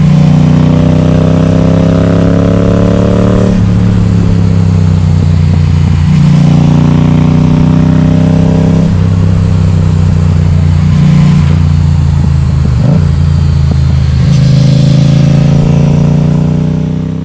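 Yamaha XSR700's 689 cc parallel-twin engine, loud through an Akrapovic exhaust with the baffle removed, pulling up through the revs three times: at the start, about six seconds in and near the end, with the pitch dropping back between pulls.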